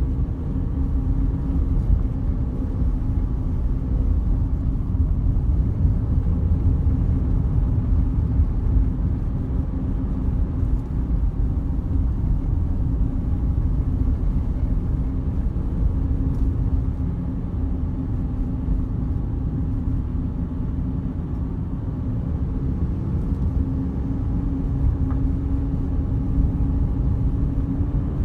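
Car driving steadily: a continuous low rumble of engine and tyres on the road, with a steady hum.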